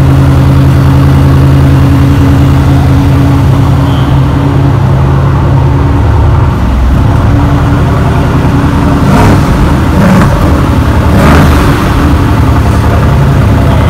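Mercedes-AMG GT R's twin-turbo V8 running loud, holding a steady note at first; after about six seconds the note changes and a few short sharp cracks come near the two-thirds mark.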